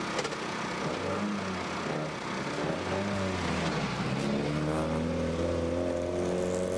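Rally car engine revving: its pitch rises, dips about three seconds in, then climbs steadily as it accelerates.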